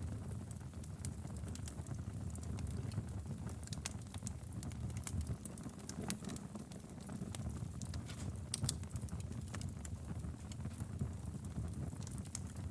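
Wood fire in a fireplace crackling, with frequent small sharp pops scattered irregularly over a low steady rumble of the flames.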